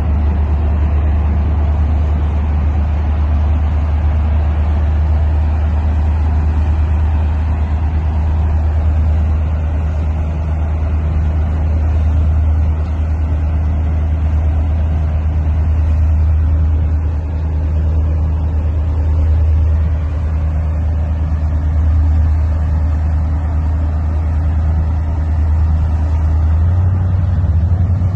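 Steady low engine drone, most likely the motor of the vessel the footage is shot from, running evenly with no breaks; near the end the drone takes on a faster pulsing beat.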